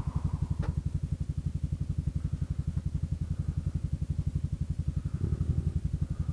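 Kymco Xciting 400i scooter's single-cylinder engine idling, a steady rapid low pulsing of about a dozen beats a second that swells slightly about five seconds in.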